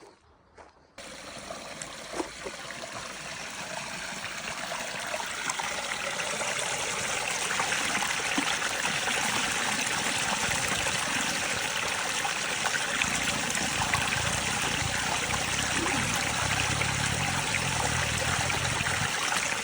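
Rushing river or stream water, an even, dense rush that comes in suddenly about a second in and grows louder over the next few seconds before holding steady. A low rumble joins it near the end.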